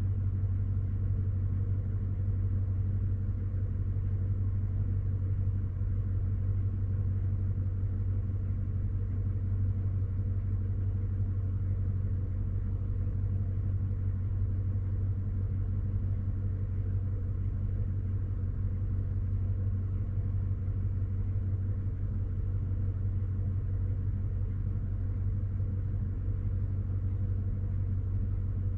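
Chevy Silverado's 5.3-litre V8 idling steadily during warm-up after a cold start, a constant low rumble with no change in pitch.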